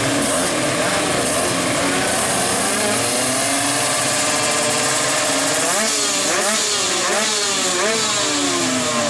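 Two-stroke racing motorcycle engine running, its pitch creeping up, then revved in quick throttle blips from about six seconds in, rising and falling about twice a second.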